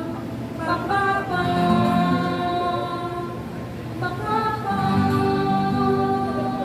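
Live singing with music: long held sung notes in phrases, with a short break about four seconds in.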